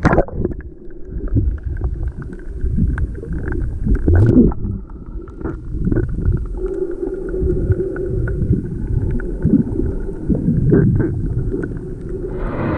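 Muffled, rumbling water noise from a camera held underwater while snorkeling, with scattered small clicks and knocks. A louder rushing noise comes in near the end.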